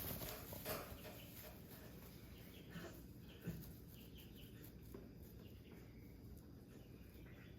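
Quiet pen ambience: faint rustling and a few soft knocks in the first second and again about three and a half seconds in, over a low background with faint high chirps.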